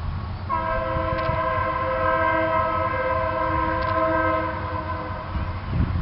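Train horn sounding one long, steady chord of several tones, lasting about five seconds, over low wind rumble on the microphone.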